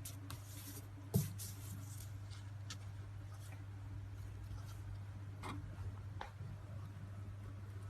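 Quiet room with a steady low hum and a few light taps, the loudest about a second in.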